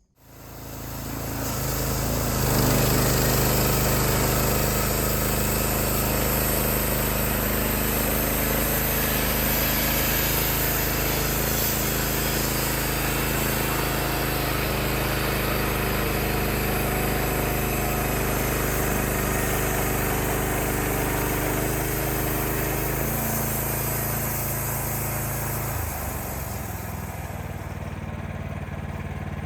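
A Wood-Mizer LX55 portable band sawmill's 14 hp engine throttles up over about two seconds, then runs steady under load with a bright hiss as the band blade saws through the log. Near the end the engine note drops and the hiss fades away as the cut finishes.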